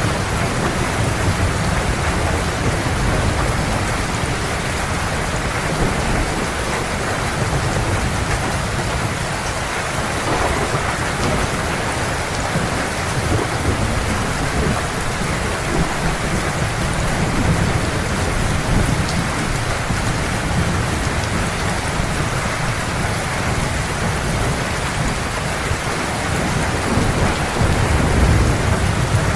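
Heavy rain falling steadily, with a continuous low rumble of thunder that swells slightly near the end.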